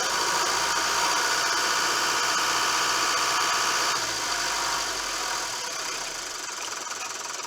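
Mitsubishi Fuso FE145's 4.9-litre turbo diesel engine idling, heard from the cab. It runs at a raised idle, set with the manual idle adjuster, then drops back about four seconds in and settles quieter.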